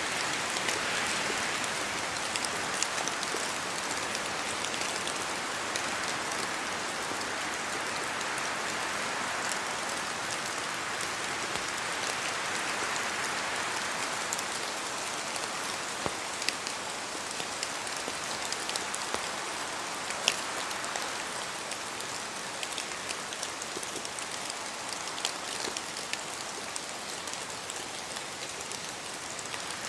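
Steady rain in a forest, with drops dripping and pattering from the trees, a constant hiss that swells and eases slowly as if with gusts of wind, and scattered sharp drip ticks throughout.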